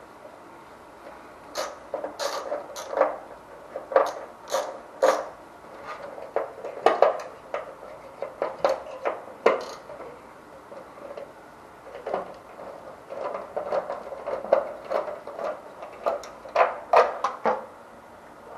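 Irregular clicks and clinks of hand tools and metal parts being handled as a water heater's access cover is taken off, coming in short clusters.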